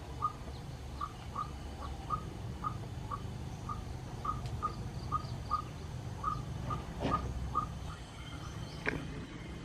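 A small animal's short chirping call repeated about twice a second at one pitch, over a low rural background rumble, with two faint clicks late on.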